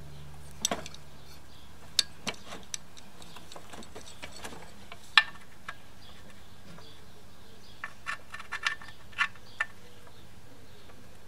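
Scattered light clicks and knocks of a lawn mower engine and its bolts being handled and lined up on the mower deck. There is a quick run of clicks near the end, over a faint steady hum.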